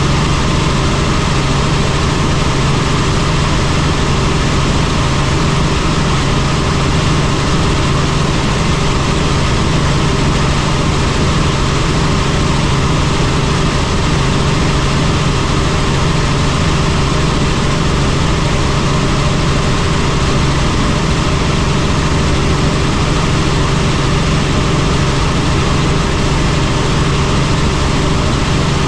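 Helicopter in flight: a loud, steady drone of rotor and turbine engine, a rushing noise with a constant low hum running through it, unchanging throughout.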